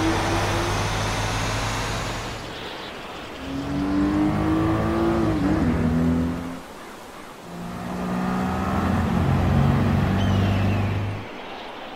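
Three motor vehicles driving past one after another, each engine heard for a few seconds with short lulls between. The first two climb in pitch, and the second drops off sharply as it passes.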